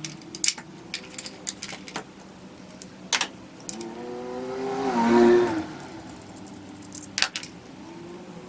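A vehicle passes by, swelling to its loudest about five seconds in and dropping in pitch as it goes. Scattered sharp clicks of a ratchet and metal tools loosening the 10mm ignition coil bolts.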